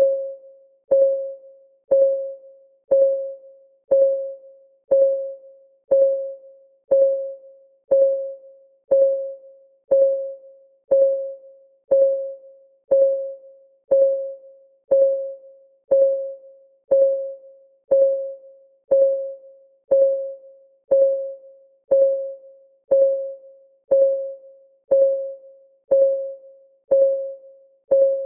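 Clock ticking sound of a countdown timer: a short, pitched tick that rings briefly, repeating evenly once a second.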